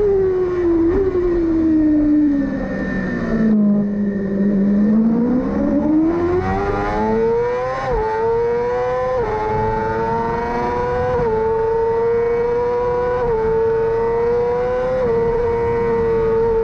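Yamaha R6 supersport race bike's inline-four engine dropping in pitch as it slows, lowest about four seconds in, then revving up hard out of the slow point. It then runs at high revs, the pitch dipping slightly at each of four quick upshifts about two seconds apart.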